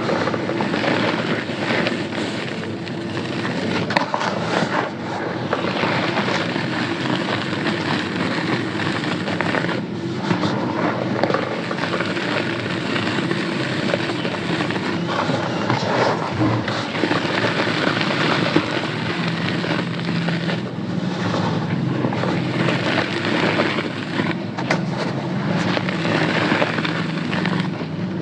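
Dried sand-cement chunks being crushed, giving a continuous dense crunching and crackling over a low hum.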